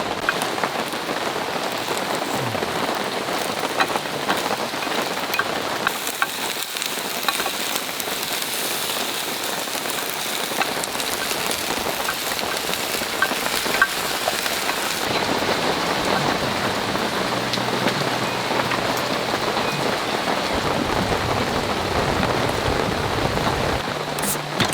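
Heavy rain falling steadily, a dense hiss dotted with individual drop ticks. The sound changes character about six seconds in and again about fifteen seconds in.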